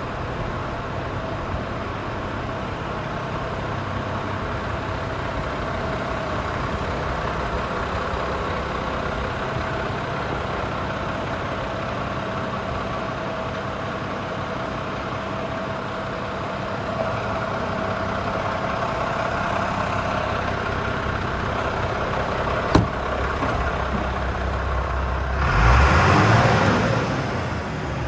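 Iveco Stralis 450 Euro 5 truck's diesel engine idling steadily, with a single sharp click and then a short louder burst of noise near the end.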